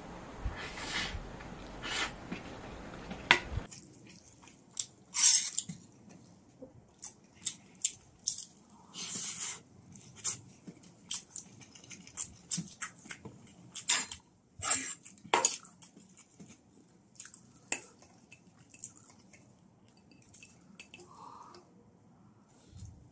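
Close-miked eating: a mouthful of rice being chewed, heard as many short clicks and crackles, with occasional clinks of a spoon and fork against a metal pan.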